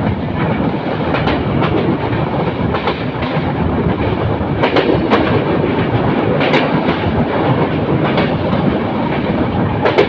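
Passenger train running at speed, heard from a moving coach: a steady rumble and rush of noise from the wheels on the track. Sharp clickety-clack strikes come every second or two as the wheels cross rail joints.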